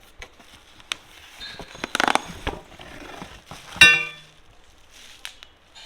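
Cardboard packaging scraping and rustling as a box is opened, with small clicks and knocks. A little under four seconds in, a metal engine-guard piece knocks and rings with one short clang that dies away quickly.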